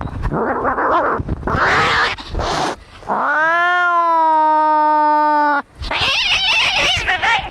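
Cats fighting: harsh, snarling cries, then about three seconds in one long, steady, drawn-out yowl lasting about two and a half seconds, cut off sharply and followed by more snarling.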